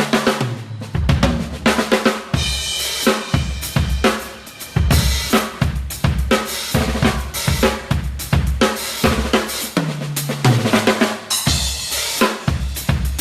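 Crush drum kit played at full volume in a busy groove: kick drum, snare, hi-hat and crash cymbals struck densely throughout. Fills run down the toms near the start and again near the end.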